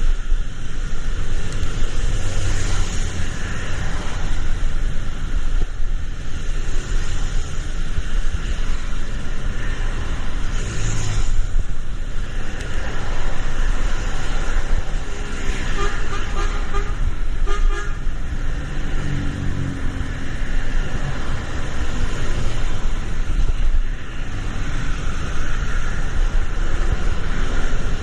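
Road traffic in the rain: a steady wash of vehicle and rain noise, with a car horn honking in several short toots a little past halfway through.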